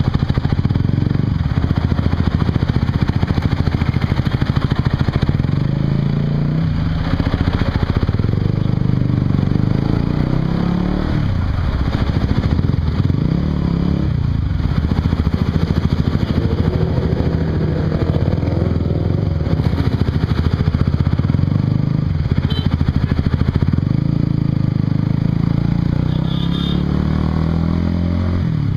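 Honda CBR150R's single-cylinder engine running through an aftermarket Yoshimura exhaust while the bike is ridden, the engine note repeatedly rising and dropping as it accelerates and shifts gears.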